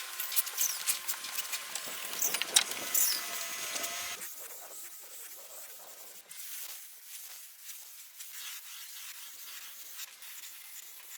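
Rubbing and scraping on a surface, with many sharp clicks, for about four seconds, then a softer, quieter hiss.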